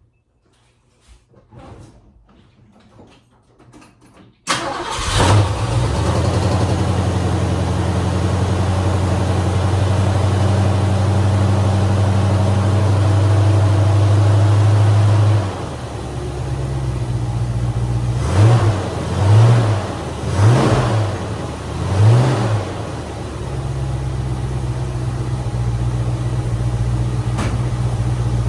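1965 Ford Mustang engine starting from cold, firing about four seconds in after a few faint clicks. It runs steadily at a raised idle, drops to a lower speed about halfway through, gets four quick revs, then settles into a steady idle.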